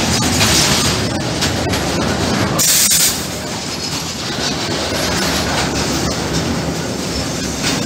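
Freight train of bogie tank wagons rolling past close by: a steady rumble with the wheels clacking irregularly over rail joints. A brief harsh high-pitched burst about two and a half seconds in, after which the rumble eases slightly.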